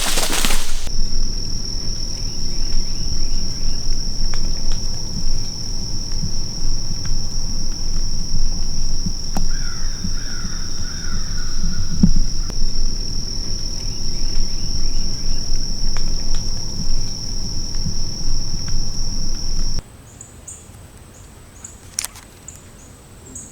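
Insects trilling in one steady high-pitched drone over a loud low rumble, with a short run of bird chirps about halfway through. About 20 s in the sound cuts abruptly to a much quieter scene with a different, higher insect trill and a sharp click.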